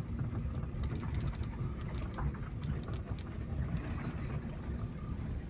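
Vehicle driving over a rough dirt road: a steady low rumble with scattered small knocks and rattles.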